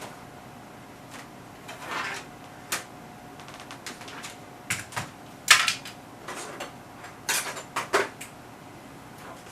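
Irregular sharp clicks and knocks of test equipment and its fittings being handled on a workbench, the loudest about halfway through and again near the end. A faint steady tone runs underneath.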